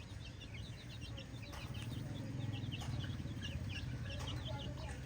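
A flock of chickens calling, with many quick high chirps and a few lower clucks over a steady low rumble.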